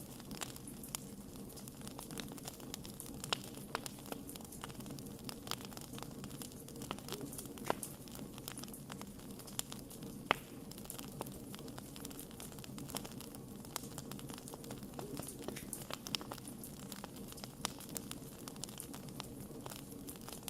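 Wood fire burning with a low steady rush, and sharp pops and crackles at irregular intervals as the wood burns.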